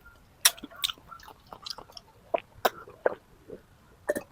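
A person chewing and biting chicken close to the microphone, giving a series of short, irregular mouth clicks and smacks.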